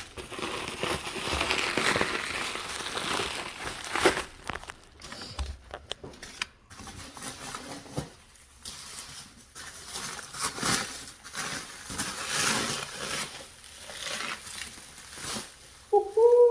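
Packaging crinkling, rustling and tearing in irregular handling noise as a new aftermarket ATV exhaust is unwrapped. A short whine that rises and falls comes near the end.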